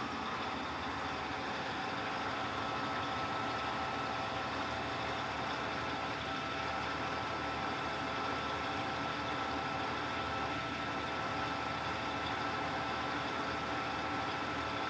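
Electrolux LTC15 top-loading washing machine running steadily: a constant motor hum with a thin, steady whine over it.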